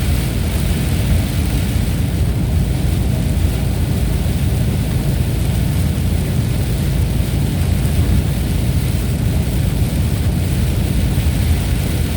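Thunderstorm ambience: steady rain hiss over a continuous deep low rumble, with no separate claps or strikes.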